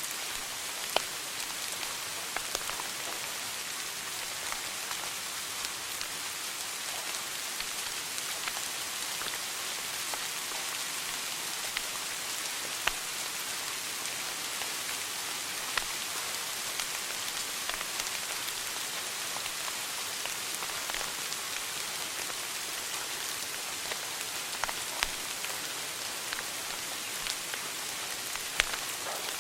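Wood fire crackling in a fireplace: a steady hiss of burning with scattered sharp pops and snaps, a few of them much louder than the rest.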